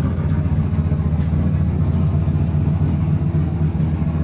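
Turbocharged Gen 4 6.0-litre V8 of an OBS truck, fitted with a single T70 turbo, idling steadily.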